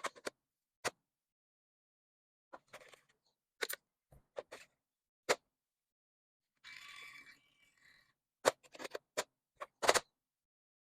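Scattered sharp taps and clicks of objects being handled and set down, with a brief rustle about seven seconds in and a quick run of clicks near the end.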